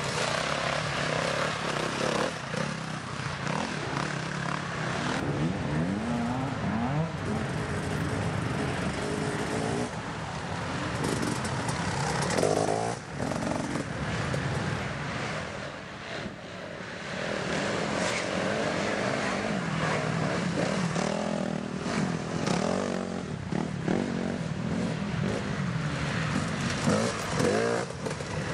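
Dirt bike engines racing, revving up and down over and over as the bikes accelerate and back off, with a brief lull twice midway.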